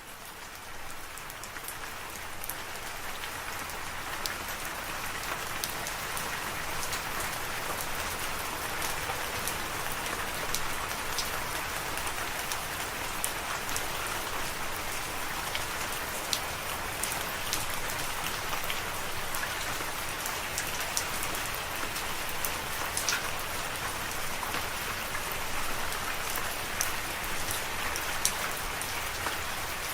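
Steady rain falling, a dense even patter with scattered sharper ticks of single drops. It fades in over the first few seconds, then holds steady.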